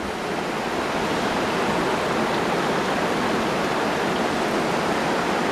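River rapids rushing in a steady roar of running water.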